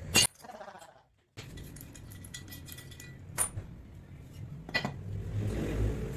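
Metal clinking: a sharp metallic clink that rings briefly, then two lighter clinks a second and a half apart over low workshop noise that builds near the end.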